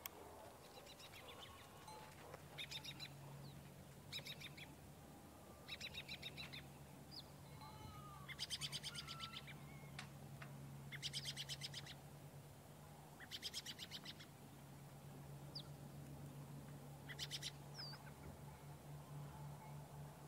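A small bird singing: about seven short, rapid high-pitched trills a couple of seconds apart, with a few thin single chirps between them, over a faint low steady hum.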